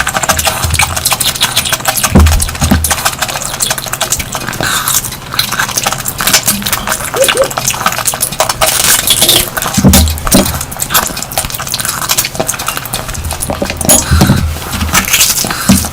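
Close-miked wet chewing and lip-smacking while eating curry, a dense run of irregular clicks and smacks with a few soft low thumps.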